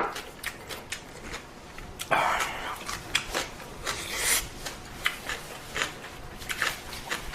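Close-up eating of ramen: a steady run of small wet mouth clicks from chewing, with a short noisy burst about two seconds in and a brighter hissing one about four seconds in.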